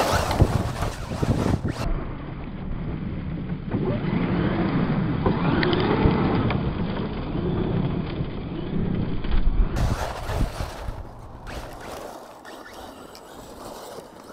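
Arrma Mojave 4S BLX RC short-course truck driven hard over dirt, its brushless motor whining up and down as the throttle is worked, with tyre and gravel noise. For several seconds in the middle the sound turns dull and muffled.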